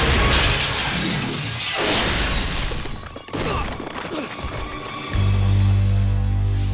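Animated crash sound effects of the driverless safe truck smashing, with glass shattering, over a dramatic orchestral score. About five seconds in, a loud low sustained chord takes over.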